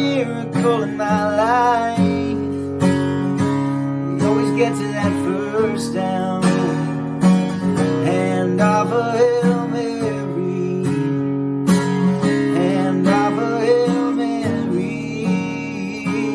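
Instrumental stretch of a song: strummed acoustic guitar chords with a melodic lead line over them, no lyrics sung.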